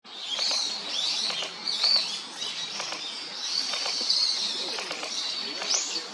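Small birds chirping and twittering without a break, several high calls overlapping, with scattered short clicks among them.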